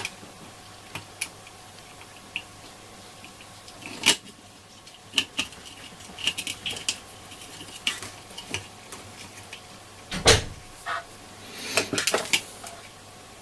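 Scattered small clicks and metallic clinks of hand tools and parts on a workbench while a small push switch is fitted into a circuit board, with one louder knock about ten seconds in.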